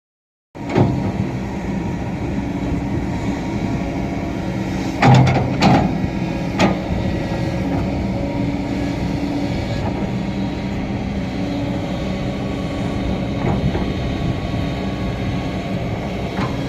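Heavy machinery engine running steadily, with a few sharp knocks or clanks.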